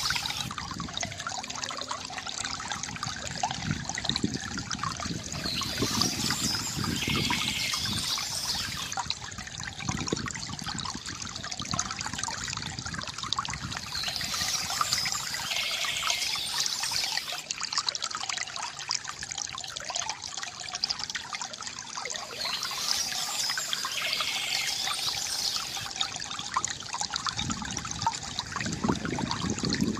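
Water trickling and gurgling steadily from a bamboo fountain, with a brighter, hissier patch recurring about every eight seconds.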